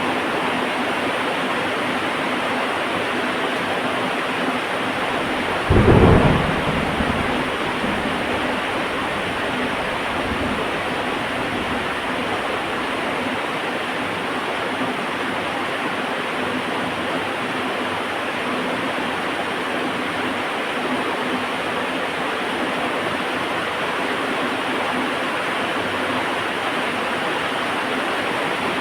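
Heavy rain falling steadily, with a single clap of thunder about six seconds in that trails off into a low rumble over several seconds.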